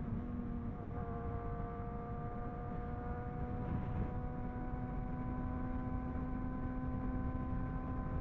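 Superbike engine running at a steady, slowly rising pitch, with wind rumble on the microphone underneath.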